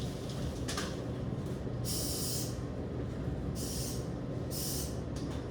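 Three short hissing sprays, each about half a second long and spaced about a second apart, from someone spraying down car rims. A steady low hum runs underneath.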